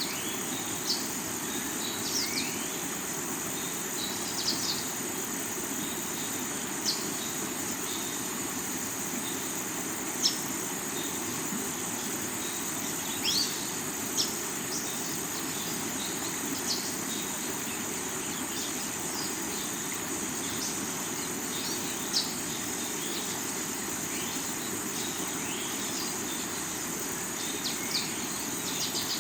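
River water flowing over rocks, with a steady high insect drone and short bird chirps every few seconds.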